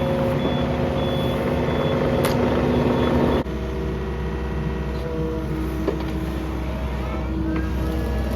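Yanmar mini excavator's diesel engine running steadily, with a high beeping alarm repeating about twice a second through the first few seconds. A little over three seconds in, the sound changes abruptly to a deeper, steady engine drone without the beeps.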